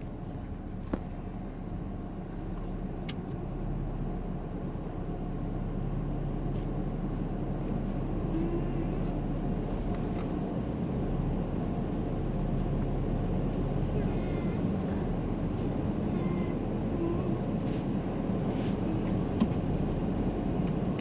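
Steady low hum of a car idling, heard from inside its cabin, growing slowly louder, with a few faint clicks.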